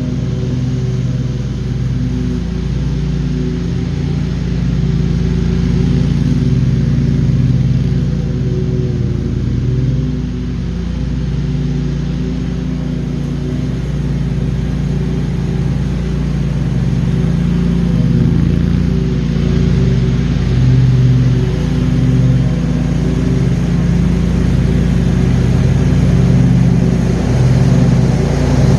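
John Deere QuikTrak 652R stand-on mower running steadily while mowing, a loud constant engine drone that rises and falls slightly in pitch and level.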